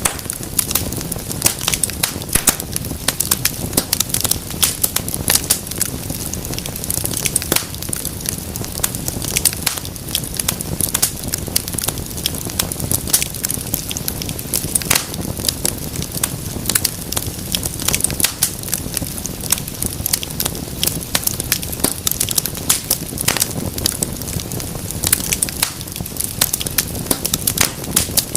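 Wood fire burning in a fireplace, crackling steadily with frequent sharp pops and snaps over a low rumble of flame.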